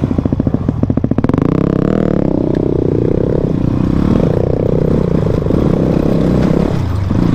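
Motorcycle engine firing in slow, even pulses at low revs, then revving up about a second in and pulling away. Its pitch climbs, with a couple of sudden drops as it shifts gear.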